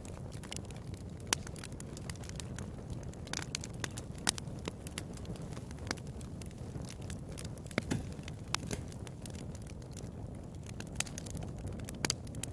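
Wood fire in a fireplace crackling, with irregular sharp pops scattered throughout over a low, steady rumble of the flames.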